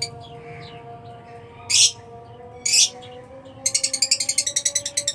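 Lovebirds in an aviary giving two short, shrill screeches about two and three seconds in, then a fast, even rattle sets in near the end.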